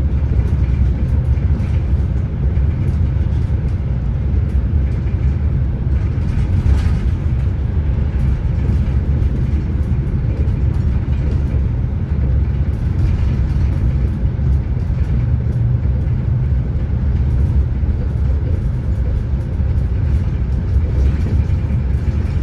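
ETR600 new Pendolino high-speed train running, heard from inside the carriage as a steady, even low rumble.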